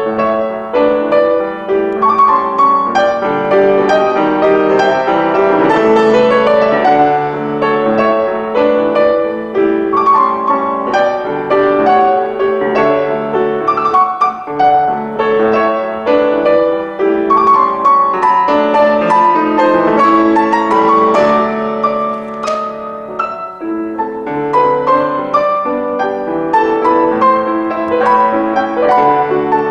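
Piano music: a steady flow of struck notes over held lower notes.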